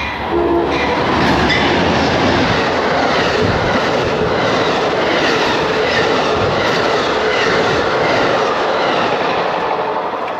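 Amtrak Empire Builder passenger train passing close by: a loud, steady rush of rolling cars, with the wheels clicking in a repeating rhythm over the rail joints.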